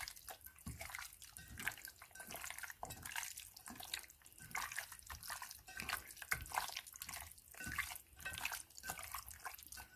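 Wet, irregular squishing and dripping as raw chicken pieces are worked by hand in a spice rub of cumin, smoked paprika and garam masala.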